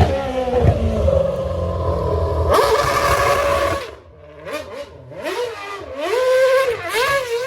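A car engine revving as it drives past, loud at first and dropping away about four seconds in. It is followed by several short rev blips that rise and fall in pitch.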